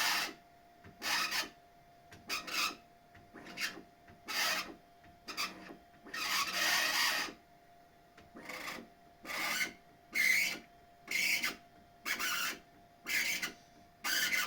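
Bambu Lab X1 Carbon 3D printer's bed moving, giving a series of short grating squeaks about one a second, with one longer squeak just after the middle. The squeak comes from the bed's drive belt rubbing against the upper or lower flange of its tensioner roller, which has picked up a layer of rubber.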